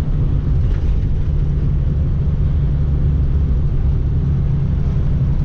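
Semi-truck engine and road noise heard inside the cab while driving: a steady low drone with an even hum underneath.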